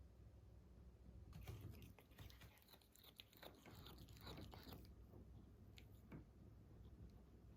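Cat chewing and biting off blades of grass: a run of quick, faint crunchy bites for a few seconds from about a second in, then two single bites near the end.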